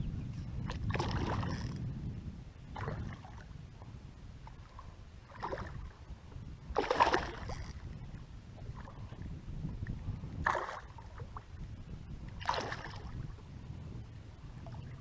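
Water splashing and sloshing around a small pedal boat in short bursts every second or two, the loudest about seven seconds in, over a steady low rumble.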